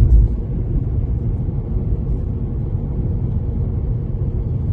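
Low, steady outdoor rumbling noise that wavers a little in level.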